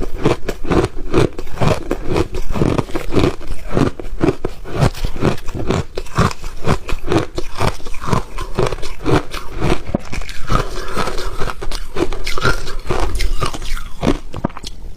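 Refrozen ice being bitten and chewed close to the microphone: a dense run of loud, irregular crunches, a few a second.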